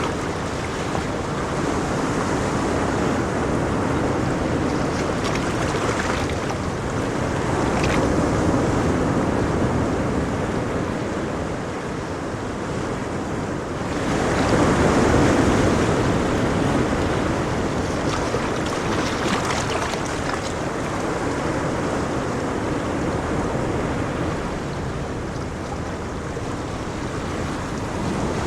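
Ocean waves breaking and washing on a shore in a continuous surf wash that swells and eases slowly, with the strongest surge about halfway through.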